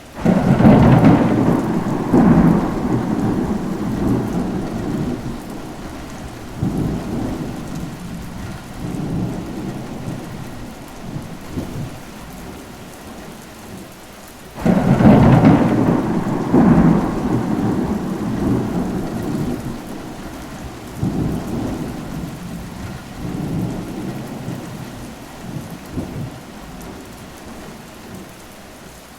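Thunderstorm: steady rain with two rolls of thunder, one breaking right at the start and one about halfway through. Each starts with a sudden loud crack and rumbles on, swelling and fading over several seconds.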